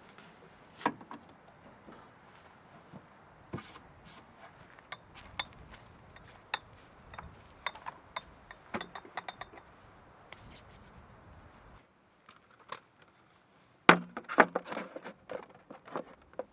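Small hard objects being handled: scattered clinks, clicks and knocks, with a louder cluster of knocks near the end.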